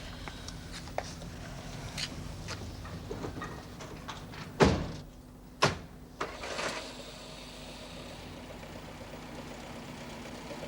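Two car doors slam about a second apart over a car engine idling, with a few lighter clicks and taps around them.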